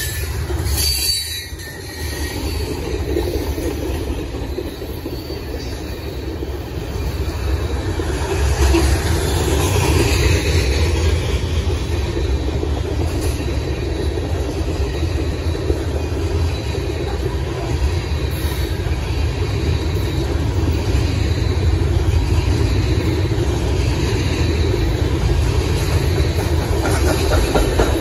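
CSX freight train's covered hoppers and tank cars rolling past at close range: a continuous rumble of steel wheels on rail, growing a little louder about eight seconds in.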